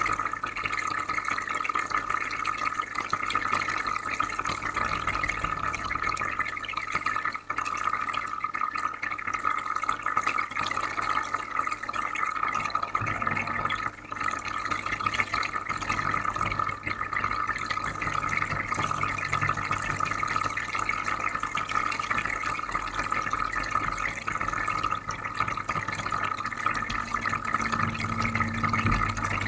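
Aquarium filter running: soft, steady bubbling and trickling of water, over a low constant hum.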